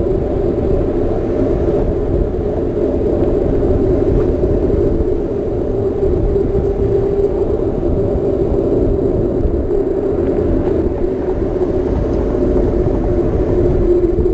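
Steady low rumble of wind and rolling tyre noise picked up by a GoPro Session action camera riding on a Trek Marlin 7 mountain bike in motion.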